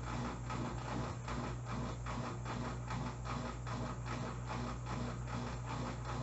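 Electrolux Turbo Economia LTE09 top-load washing machine in its spin cycle: a steady motor hum with a soft whoosh pulsing two to three times a second as the drum spins.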